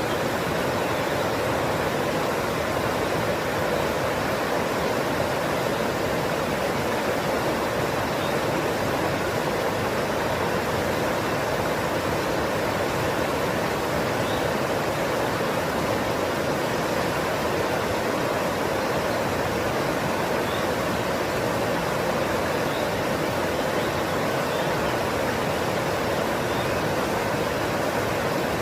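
Rushing water: a loud, steady, even roar that does not change.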